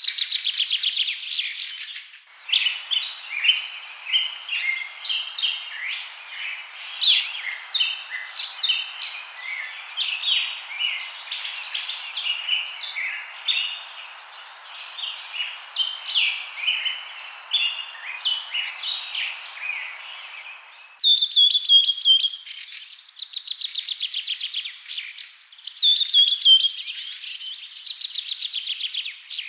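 Birds chirping and singing: a busy mix of short chirps over a steady hiss, changing abruptly about two-thirds of the way through to fast trilled phrases.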